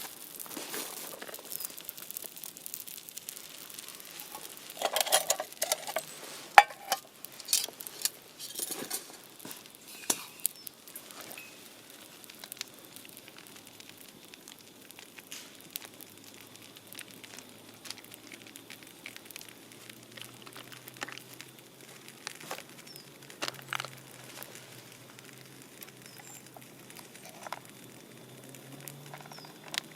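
Scattered sharp clicks and knocks with crinkling, busiest between about five and eleven seconds in, then only an occasional click.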